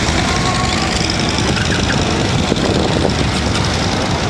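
Motorcycle engine running steadily over a constant rumble of outdoor noise.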